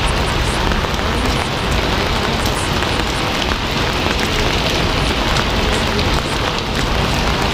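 Steady heavy rain, a dense even hiss filled with many small drop patters.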